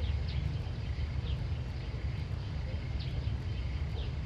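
Outdoor ambience: a bird repeating short, high chirps that drop in pitch, about one a second, over a steady low rumble.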